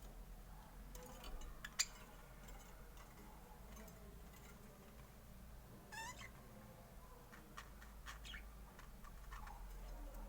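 Budgerigars giving scattered short chirps and calls, one of them rising in pitch about six seconds in, with a sharp click about two seconds in.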